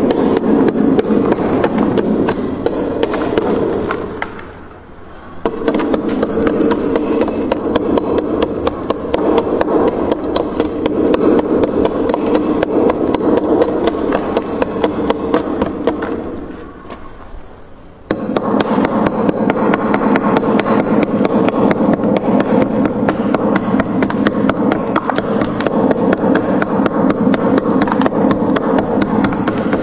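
Frost ice in a freezer being scraped, a dense rapid crunching crackle that eases off and stops briefly twice, starting again sharply about two-thirds of the way through.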